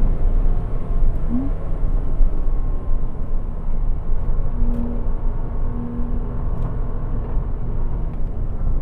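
Porsche Cayman 987's 2.7-litre flat-six running steadily on a warm-up lap, not being revved hard, under a heavy, even low rumble of road and wind noise.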